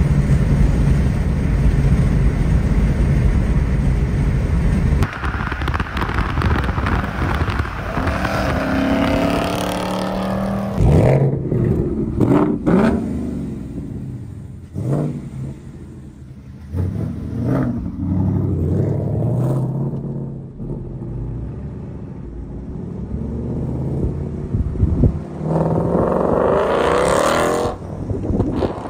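Steady engine and road drone from inside a moving car. About five seconds in, after a cut, a Ford Mustang Mach 1's V8 revs in rising and falling sweeps close by, with the loudest peaks around the middle, and near the end there is a loud, swelling burst of acceleration.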